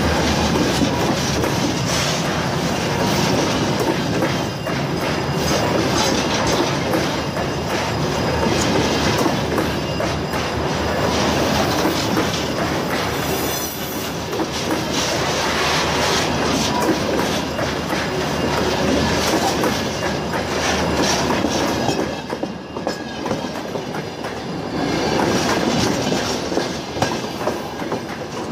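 Train rolling past at rail level: steady rumble and clatter of steel wheels on the rails as the bogies go by, easing a little about 22 seconds in.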